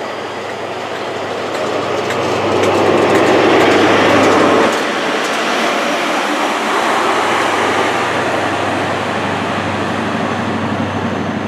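Diesel InterCity 125 (HST) departing: the coaches and then the rear Class 43 diesel power car passing close, wheels rumbling on the rails over a steady engine hum. The noise is loudest a few seconds in, then eases slightly as the train draws away.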